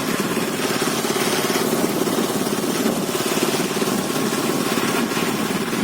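Motorcycle engine running steadily at low, even revs, its firing pulses close together and unchanging.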